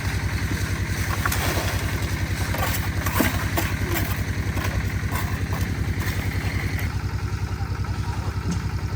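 Small engine running steadily with a fast, even chugging, most likely the engine driving the concrete mixer; a few light knocks sound over it.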